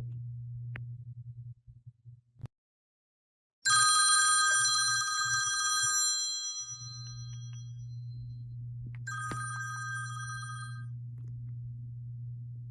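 A bright ringing tone sounds twice, loud about four seconds in and fading over a few seconds, then again more weakly about nine seconds in, over a low steady hum.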